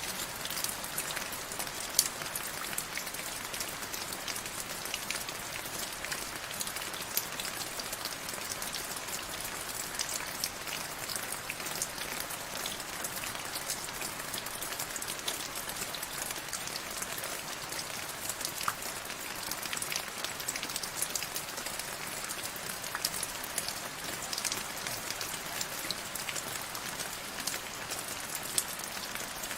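Steady rain falling, an even hiss of many drops with scattered sharper individual drop hits.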